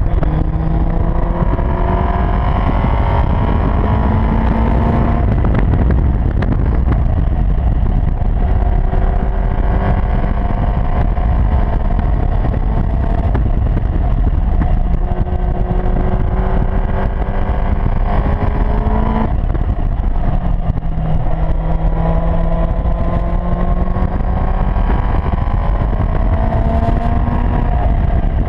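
Seven-type sports car's engine heard from its open cockpit, its pitch climbing slowly for several seconds at a time and breaking off suddenly about five seconds in and again near twenty seconds, over heavy wind noise.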